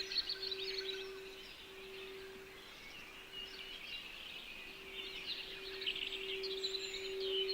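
Small birds chirping and twittering in quick runs, busiest at the start and again from about five seconds in. Under them a steady, pure low meditation tone holds, fading briefly in the middle.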